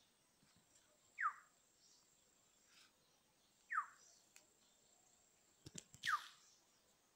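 A bird calling three times, each a short chirp sliding downward in pitch, about two and a half seconds apart. A few faint clicks come just before the last chirp.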